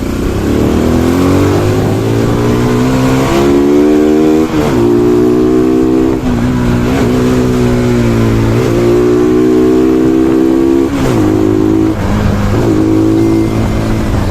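Bajaj Pulsar NS200's single-cylinder engine accelerating on the road. Its pitch climbs, then drops briefly and picks up again several times as the rider shifts gears.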